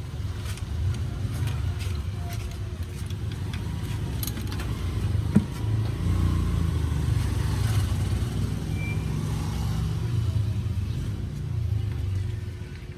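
A motor vehicle's engine running with a steady low rumble, with one sharp click about five seconds in.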